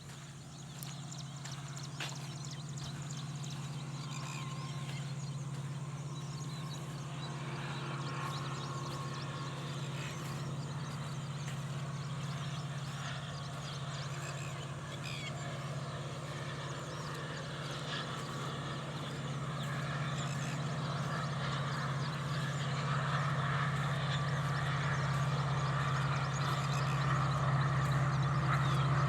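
Birds calling, many short calls over one another that grow denser and louder in the second half, over a steady low hum.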